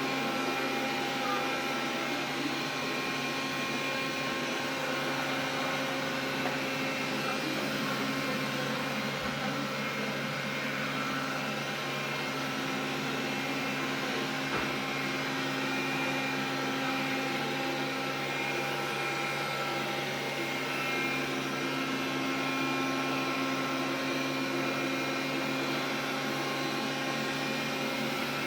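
Xiaomi vacuum cleaner running steadily: a continuous motor hum of several steady tones, with the stray extra noise that the owner is recording it for.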